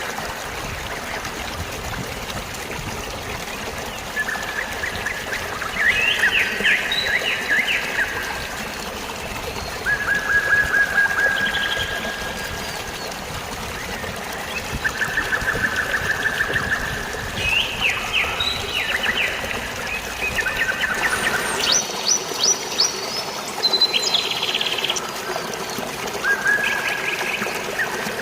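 Steady trickling, flowing water with songbirds calling over it: several phrases of rapid trilled notes, repeating from a few seconds in.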